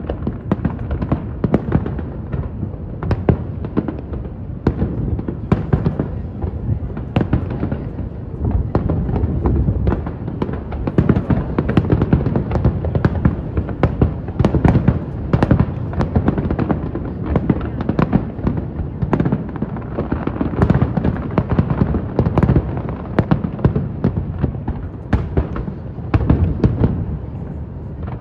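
Aerial fireworks display going off in a dense, unbroken barrage: many sharp bangs and cracks following each other every fraction of a second over a continuous deep rumble of shell bursts.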